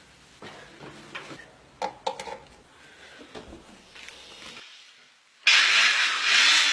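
A few light handling knocks, then about five and a half seconds in an electric blender is switched on and runs loud and steady.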